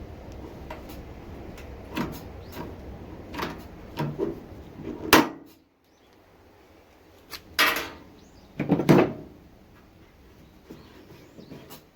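A series of irregular knocks and clunks from objects being handled, loudest about five seconds in and again around nine seconds, with a sudden change in the background noise in between.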